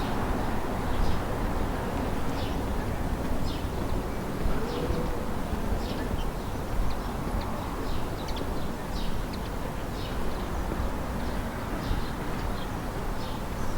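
Town ambience: a steady low rumble of distant traffic and city noise, with many short, high bird chirps scattered through it.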